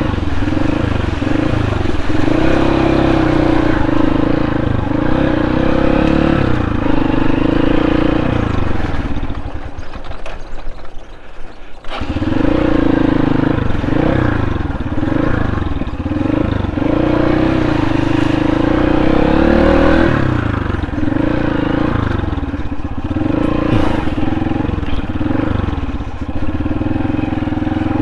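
Motorcycle engine revving up and down in short pulls as it is ridden over a muddy, slippery dirt track, dropping away briefly about ten seconds in before pulling again.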